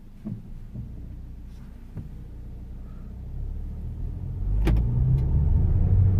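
Cabin sound of a 2013 Ford Fiesta pulling away, its engine and road rumble building and growing louder after about four seconds. A few light clicks come early, and a sharp knock comes about four and a half seconds in.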